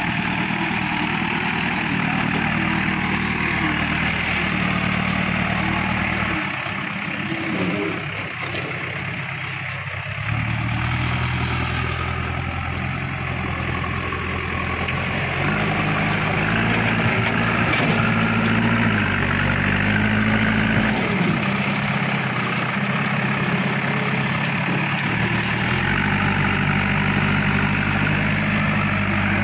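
Diesel engine of heavy machinery running, its revs stepping up and down several times as it works.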